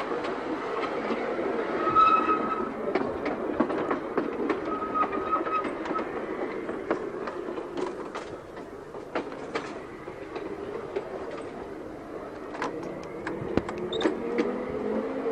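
Electric narrow-gauge tram running along the track, wheels clicking over rail joints, with two brief squeals early on. The traction motor's whine dies away at first and rises again near the end as the tram picks up speed.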